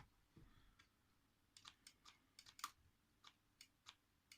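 Faint, irregular light clicks, about a dozen, starting about a second and a half in, one a little louder near the middle: plastic controls and case of an old Sony flip-clock alarm radio being handled.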